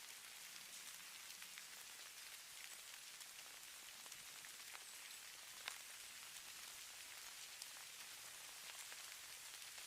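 Falling snow: a faint, steady high hiss with scattered soft ticks of flakes landing, one sharper tick a little over halfway through.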